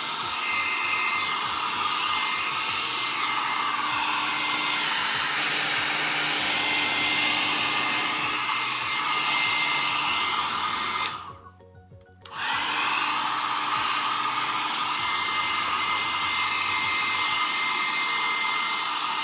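BaByliss hand-held hair dryer blowing steadily, a rush of air with a thin whine over it. It cuts out for about a second about two-thirds of the way through, then runs again.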